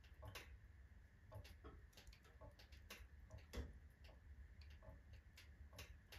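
Alder and oak logs burning in a wood stove, crackling faintly with irregular sharp pops, the loudest about three and a half seconds in.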